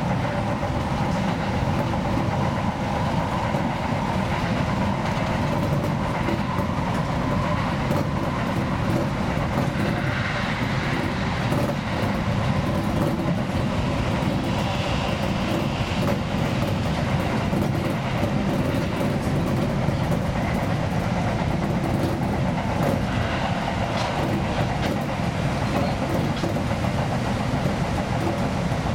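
Seibu 2000 series electric commuter train running along the line, heard from inside the front cab: steady rumble of the wheels on the rails with faint repeated clicks.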